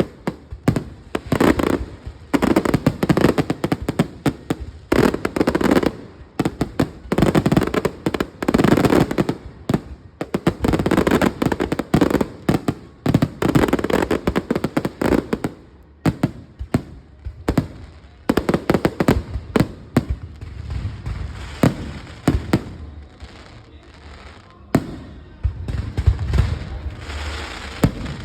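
Fireworks display: a rapid string of loud bangs and crackling bursts, packed closely in the first half and more spaced out toward the end.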